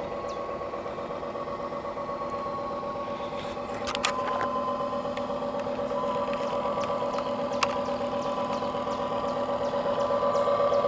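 Radio-controlled model tugboat running with a steady, engine-like hum that pulses rapidly, like an idling engine, and gets a little louder about four seconds in. Two sharp clicks, about four seconds in and again past halfway.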